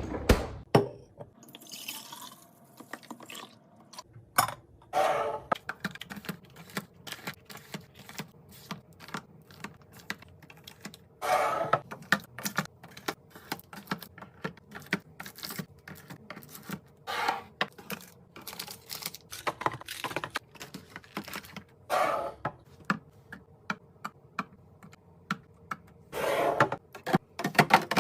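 Containers and packaging being handled and set in place while restocking a fridge: a dense run of small clicks and taps with a few louder knocks.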